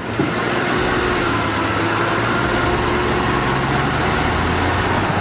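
A heavy vehicle's engine running steadily, with a faint, even whine over the engine hum.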